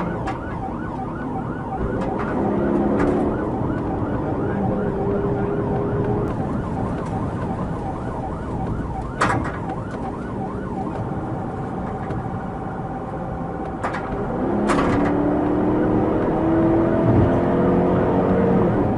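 Police car siren sounding over engine and road noise, its pitch sweeping quickly up and down, with a few sharp clicks about halfway through and near the end.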